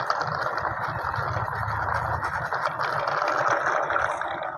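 Toy vehicles being pushed along, their plastic wheels and bodies rolling and rattling in a steady rumble.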